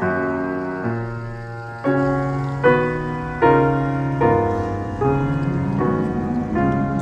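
Background piano music: slow chords, each struck and left to ring, a new one just under every second.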